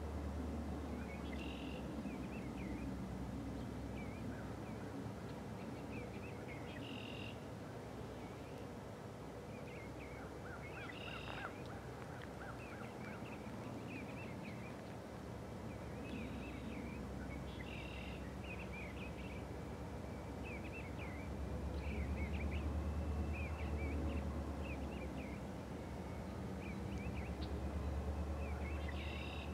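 Small birds chirping and calling repeatedly, short twittering notes over a steady low rumble that swells twice in the second half.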